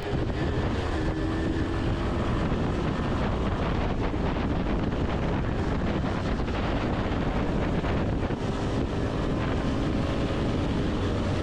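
Motorcycle engine running at riding speed, with strong wind noise buffeting the onboard camera's microphone.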